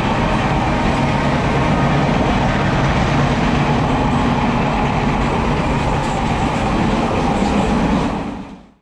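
Running noise of a Class S11 diesel multiple unit heard from inside the passenger coach: a steady low rumble with rail noise, fading out near the end.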